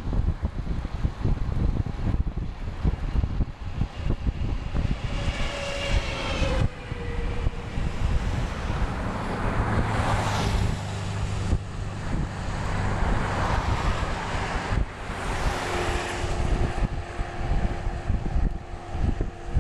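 Wind buffeting the microphone while cycling along a highway, with several motor vehicles passing; one passing engine's pitch drops as it goes by about six seconds in, and others swell and fade around ten and sixteen seconds in.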